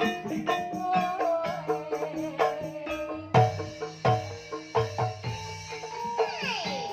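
Javanese traditional ensemble music: tuned mallet-struck instruments play a running melody of quick notes over deep hand-drum strokes.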